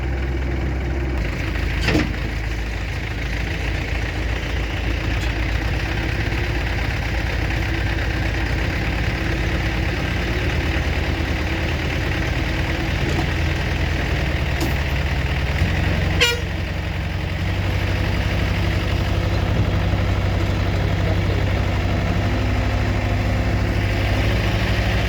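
Heavy vehicle engine running steadily, its note shifting near the start and again a little past the middle. Two sharp knocks come through, about two seconds in and around sixteen seconds in.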